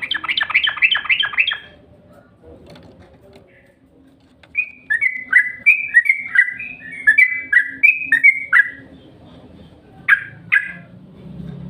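Yellow-vented bulbul (trucukan) singing: a quick run of about eight notes, then after a pause a longer bubbling phrase of short warbled notes, and two more notes near the end.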